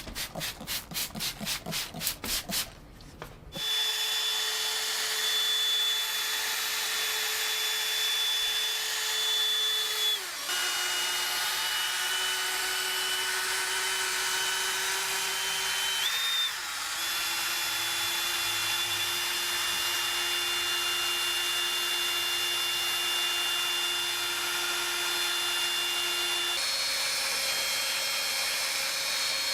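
Rapid rhythmic rubbing strokes, about four a second, for the first few seconds, then a handheld power tool's motor starts and runs steadily with a high whine. Its pitch dips slightly twice and shifts again near the end.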